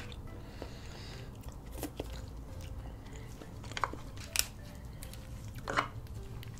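King crab leg shells being cracked open: about four sharp cracks and snaps spread through a few seconds, with soft eating sounds between.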